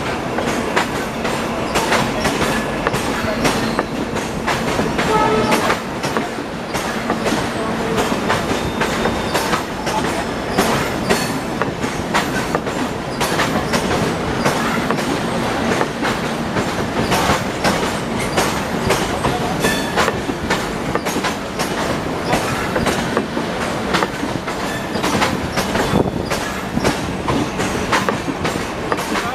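Deccan Queen express train running, its wheels clattering steadily over the rail joints with a constant rumble and many irregular clicks.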